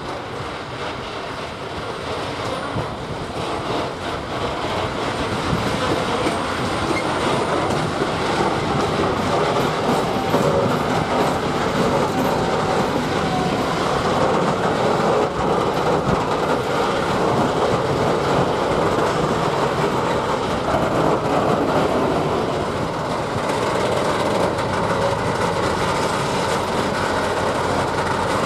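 Freight train of open wagons rolling past on the rails behind a diesel locomotive: steady wheel-on-rail running noise that grows louder over the first several seconds and then holds.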